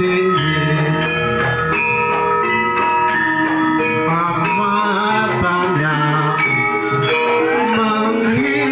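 Javanese gamelan music, with struck metallophones ringing under a wavering sung melody, played loud and steady through a PA system under sound check.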